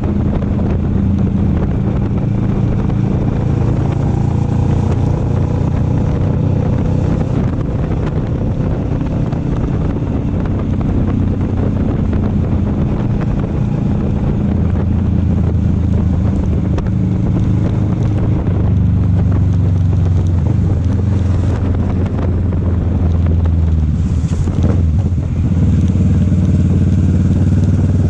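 Motorcycle engine running while riding, heard from the rider's position, with wind rushing over the microphone. The engine note steps to a new pitch about halfway through and again a few seconds later as speed changes.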